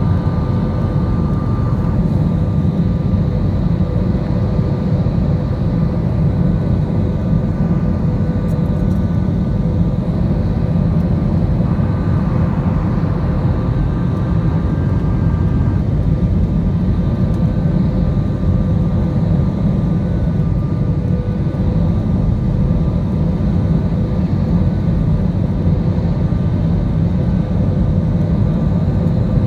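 Go Air Airbus A320-family airliner's engines and airflow: a steady, unbroken low rumble with faint whining tones held on top.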